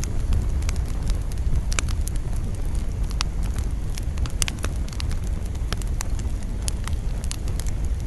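Campfire burning with frequent sharp crackles and pops of wood, over a steady low rumble of wind.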